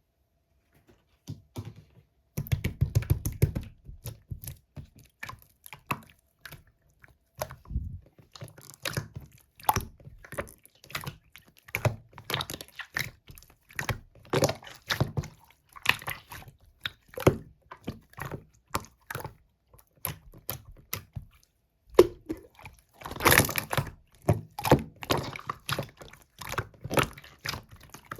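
Slime being squeezed and poked by hand: a continuous run of sticky clicks and small air-bubble pops, with denser bursts about two seconds in and again a few seconds before the end.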